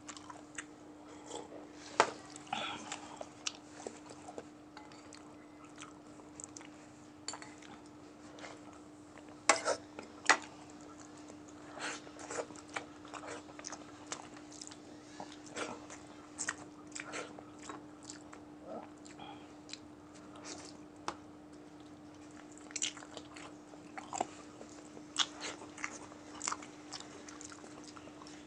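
Close-miked eating sounds: chewing, wet mouth smacks and clicks with a few sharper crunches as a person eats rice and crispy fried chicken by hand. A steady low hum runs underneath.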